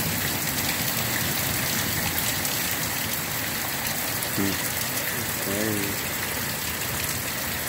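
Heavy rain coming down steadily, a hard, unbroken downpour beating on surfaces.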